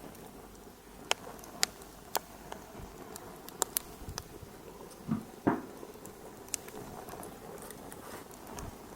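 Wood fire in a fireplace crackling: sharp, irregular snaps and clicks over a steady low hiss, with two louder, deeper pops about five seconds in.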